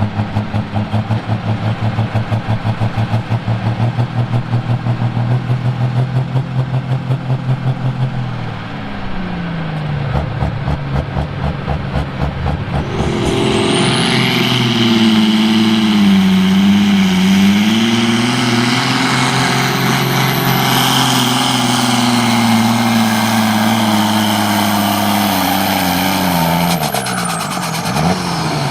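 Ursus tractor's diesel engine running steadily at first, then from about halfway opened up hard and held under heavy load, a high whistle rising with it and the engine note sagging twice before the revs fall away near the end.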